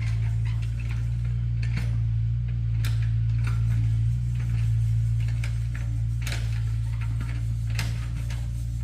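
A steady low hum with irregular clicks and knocks over it.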